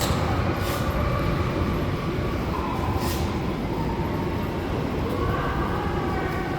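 Ice hockey rink during play: a steady rumble of skating and arena noise, with a couple of short sharp scrapes like skates stopping on the ice.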